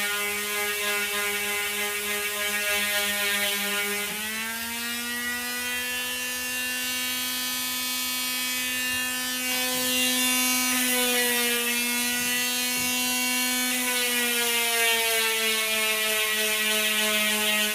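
Handheld electric power tool running continuously with a steady whine while shaping the edge of a dashboard panel; its pitch steps up a little about four seconds in and drifts down toward the end as it is worked against the material.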